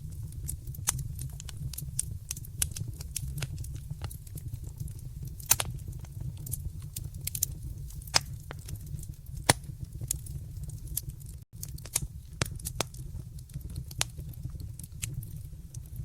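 Wood fire in a fireplace crackling: sharp, irregular pops and snaps over a steady low rumble. The loudest pops come about five and a half and nine and a half seconds in, and the sound drops out for a split second about eleven and a half seconds in.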